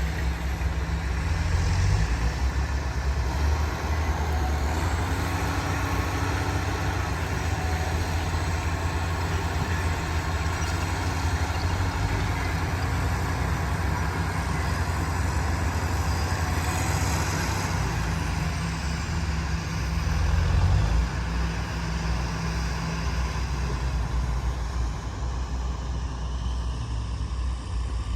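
Heavy diesel earthmoving machinery running steadily, a low engine rumble that swells briefly about twenty seconds in.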